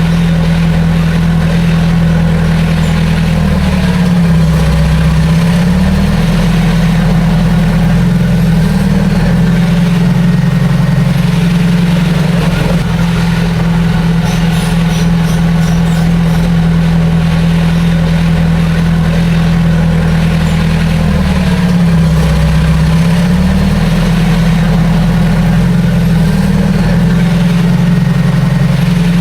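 Heavy diesel engine of earthmoving machinery running steadily. Its pitch sags briefly twice, about four seconds in and again past twenty seconds, as the engine takes load and then recovers.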